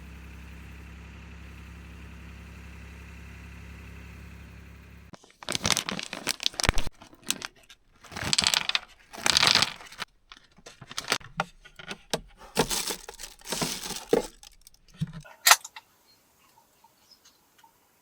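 A steady low mechanical hum cuts off abruptly about five seconds in, followed by about ten seconds of irregular rustling and crinkling handling noises with a jangle like keys, then faint ticks.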